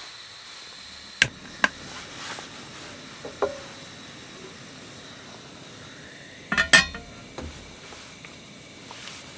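Dishes and utensils clinking as they are handled, over a steady hiss: two sharp clinks a little over a second in, one with a short ring about three and a half seconds in, and a quick cluster of clinks, the loudest, near seven seconds.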